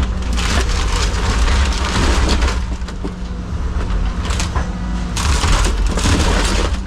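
Caterpillar 306 mini excavator's diesel engine working hard, with irregular cracking and crushing as the mobile home's walls and framing are pushed over and break apart.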